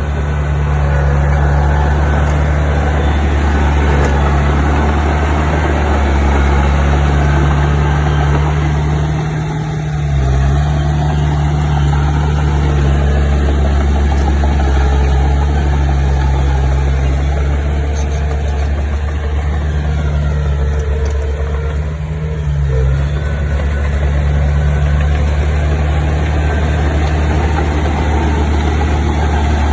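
Diesel engine of heavy construction machinery running steadily, its note dipping briefly about a third of the way in and again about three quarters through.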